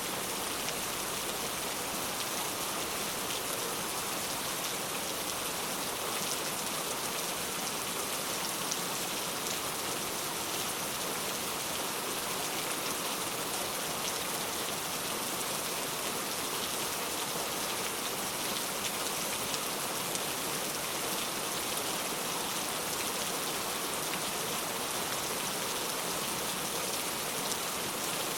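Steady rainfall, an even hiss of many drops with fine patters, with no change in intensity.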